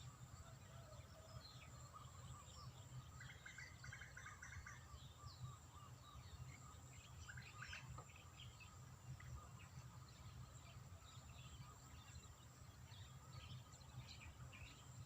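Faint outdoor ambience: scattered bird chirps, with a short rapid bird trill about three seconds in, over a steady low rumble and a thin steady high tone.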